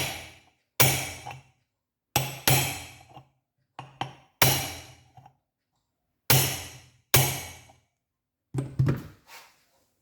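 A hammer knocking on metal engine parts: about nine sharp blows at uneven intervals, often in quick pairs, each ringing briefly.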